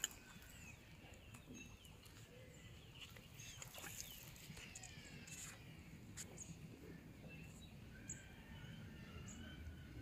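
Faint birds chirping and calling in quick short notes, busiest a few seconds in, over a quiet outdoor background.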